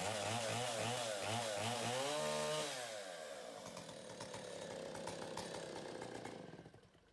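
Stihl Contra Lightning two-stroke chainsaw engine, bored out to 137 cc, running just after a cold start: revved up and down repeatedly, held at high revs for a moment, then dropping to a lower, uneven run that stops near the end.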